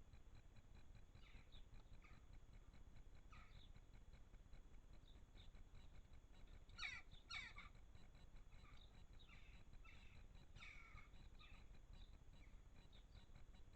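Garden birds calling: faint, repeated short chirps throughout, with two louder calls close together about seven seconds in, over a steady low background rumble.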